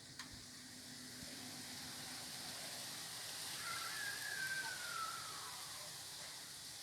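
Outdoor wind noise, a gust swelling and easing off again. A faint tone glides slowly down through it midway.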